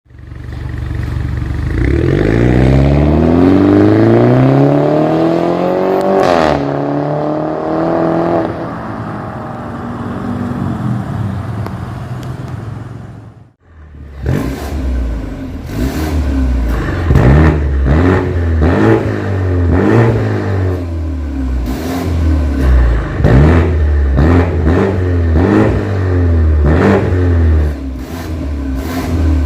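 BMW G30 520i's turbocharged four-cylinder engine revving through an aftermarket stainless valved full exhaust. The revs climb slowly to a peak, fall back and hold, then after a sudden break come a string of quick, sharp throttle blips.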